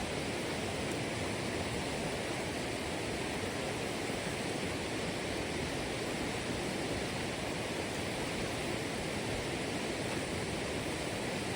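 Steady, unbroken rushing noise with no distinct events, the kind made by running water or wind.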